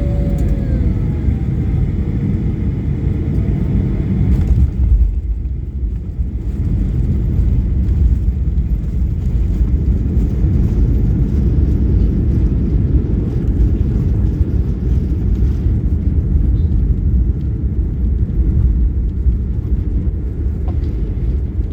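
Steady low rumble of a moving vehicle, with a brief dip in the higher sounds about five seconds in.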